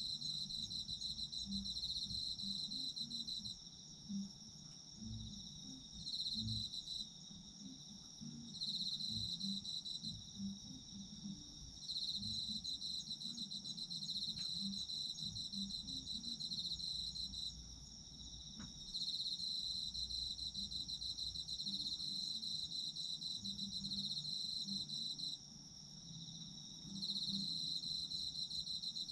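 Autumn crickets chirping: one insect keeps up a steady high trill while another trills in bouts of a few seconds, with short pauses between them.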